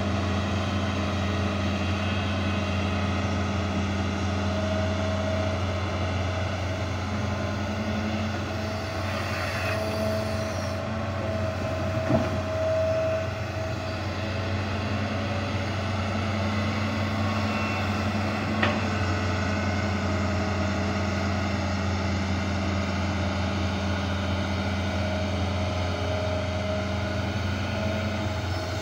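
Heavy diesel engine of earthmoving equipment running steadily, with a higher whine that comes and goes and two short knocks, about twelve and nineteen seconds in.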